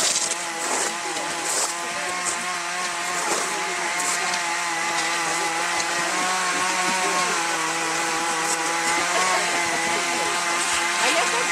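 A small engine running steadily, its pitch wavering slightly, with a few faint ticks over it.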